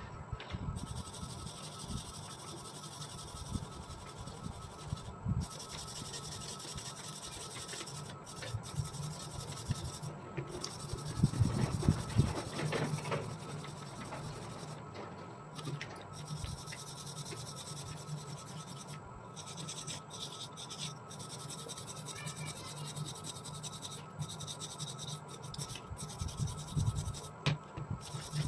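Steady hand scraping and rubbing on rusty metal, as in scrubbing rust off old pliers, with a louder stretch about eleven to thirteen seconds in.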